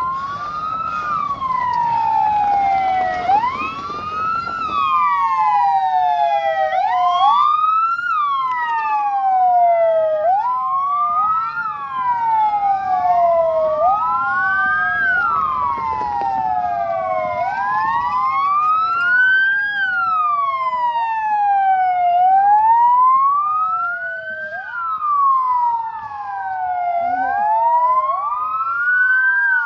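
Two or more emergency vehicle sirens wailing together out of step. Each tone climbs quickly, then glides slowly down, repeating every three to four seconds.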